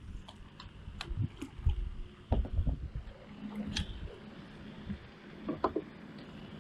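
Scattered light knocks and clicks, with low thumps and faint splashing and sloshing water, as of a person handling fishing gear in a kayak on the water.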